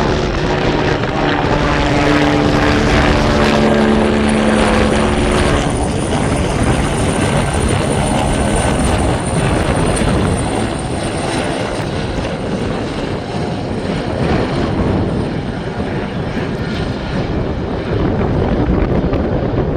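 Aircraft passing close, loud, its engine tones sliding in pitch for the first few seconds, then a steady noisy rush with a high thin whine that fades off past the middle.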